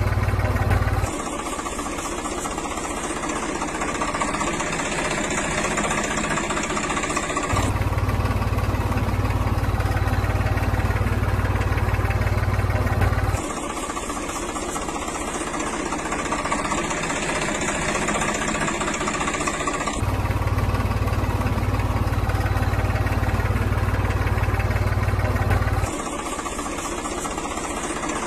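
An engine idling steadily. The sound cuts abruptly back and forth every six seconds or so between a heavier, deeper version and a lighter, brighter one.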